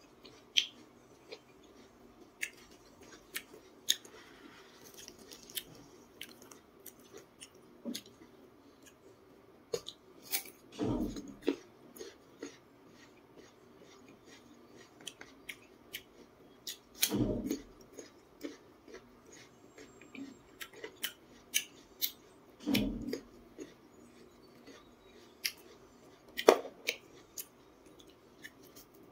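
Close-miked chewing of raw jicama: many sharp, crisp crunches and mouth clicks, with three louder, lower sounds spread through the chewing.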